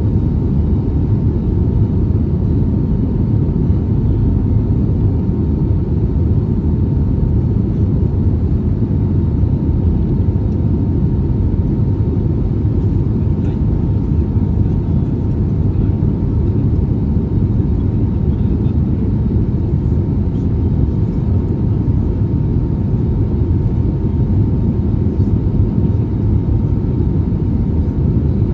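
Steady cabin noise inside an Airbus A320neo in flight: a low rumble of airflow and engine noise, heard from a window seat, with a faint steady whine on top.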